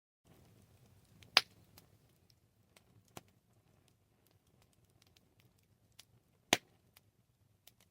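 Wood campfire crackling: scattered sharp pops and snaps over a faint low crackle, with two loud snaps about five seconds apart.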